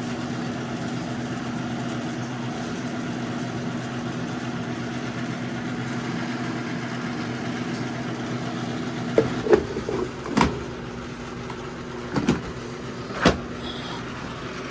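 Coffee machine running during its cleaning cycle: a steady motor-and-pump hum that starts suddenly and cuts off at the end, with a few sharp knocks and clicks over the last few seconds.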